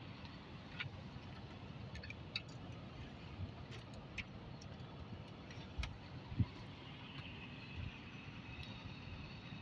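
Steady low rumble of a vehicle or machinery, with scattered light clicks and knocks and a louder thud about six seconds in.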